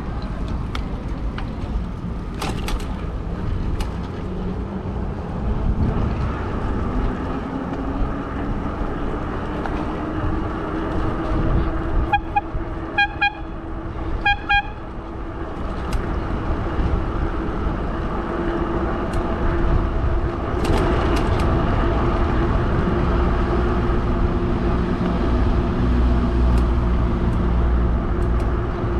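Fat-tire electric bike riding with wind and road noise, its motor whine rising as it speeds up and then holding steady. About halfway through, a few short horn beeps sound in quick pairs.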